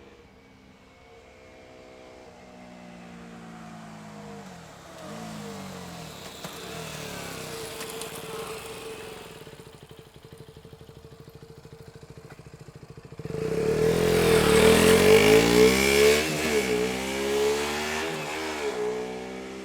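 2014 KTM Duke 125's 125 cc single-cylinder four-stroke engine through its stock exhaust, accelerating with its pitch rising, faint at first. About two-thirds of the way through it gets suddenly much louder, with the engine note rising and dropping several times.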